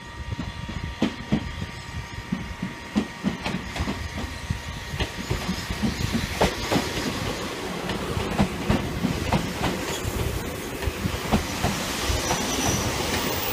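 Sangi Railway electric train approaching and running past along the platform, its wheels clacking over rail joints and getting louder as it nears.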